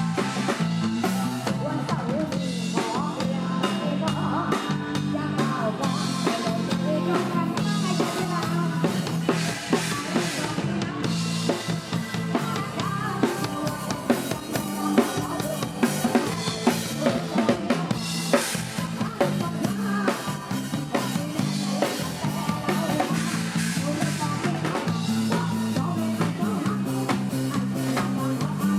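Live Isan band music with a drum kit playing.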